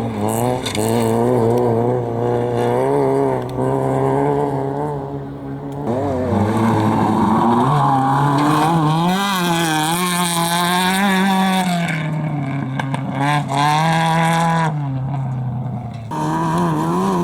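Competition vehicle's engine held at high revs, its pitch rising and falling repeatedly under throttle, with short drops in revs about six seconds in and again near the end.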